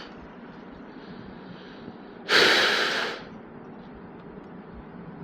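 A person's loud, sharp breath out close to the microphone, once, lasting under a second, about two seconds in, over steady low riding noise.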